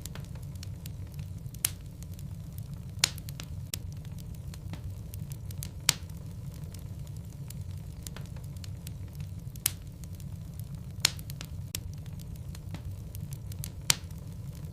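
Wood logs burning in a fireplace: a steady low rumble with frequent small crackles and about six louder, sharp pops spread through.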